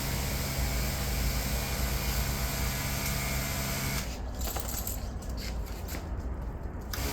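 Electric sprayer pump on a dirt-bike weed sprayer running, with a steady hum and a spray hiss. About four seconds in, the hiss and most of the hum drop away for about three seconds, then return near the end.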